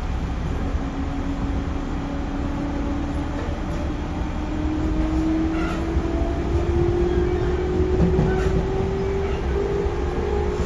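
311-series electric train running, heard from inside the car: a steady rumble of wheels on the track under a motor whine that rises slowly in pitch as the train gains speed.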